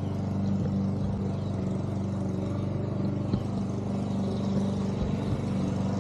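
A steady low hum from a running motor, holding one pitch, with a few faint clicks about halfway through and near the end.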